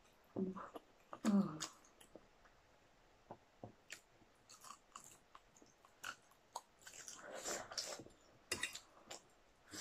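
Close-up eating sounds of crispy fried chicken wings: bites, crunching and chewing in scattered short clicks. There is a brief vocal sound from one of the eaters about a second in.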